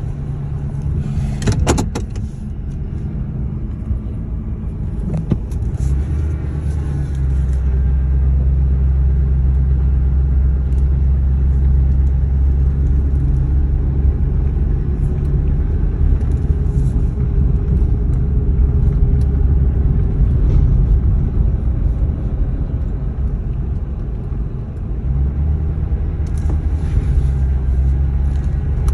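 2003 Ford F-150 running with a low, steady hum, the unexplained noise the owner says could be a number of things. The hum grows louder about six to eight seconds in and eases briefly near the end, with a few clicks and rattles near the start.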